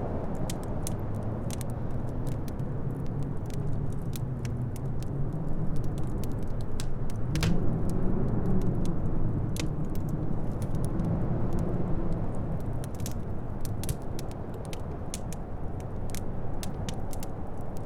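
Howling wind with a low moan that slowly rises and falls, over a wood fire crackling with many small pops and one louder crack about seven seconds in.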